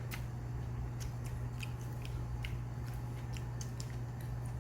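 A person chewing food with small, wet mouth clicks at irregular intervals, over a steady low hum.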